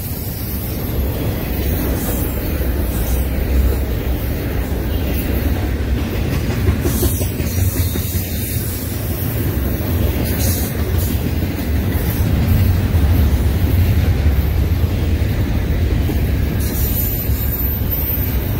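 Double-stack intermodal freight cars rolling steadily past: a continuous low rumble of steel wheels on rail.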